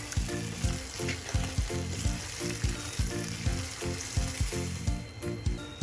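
Minced meat and tomato spaghetti sauce sizzling in a frying pan as a spatula stirs them, over background music with a steady beat.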